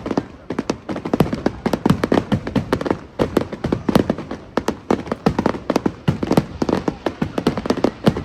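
Fireworks display: a rapid, irregular run of sharp bangs and crackles, several a second, loud throughout.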